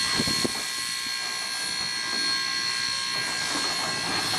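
Steam locomotive hissing steadily, a loud even hiss of escaping steam with a few thin whistling tones running through it.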